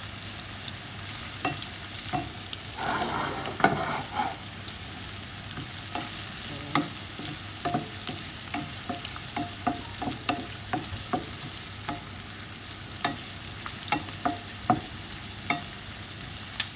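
Onion and chicken frying in hot oil in a pan, sizzling steadily, with frequent short clicks of a utensil stirring against the pan. About three seconds in, the sizzle is louder for a second or so, as the chicken goes into the oil.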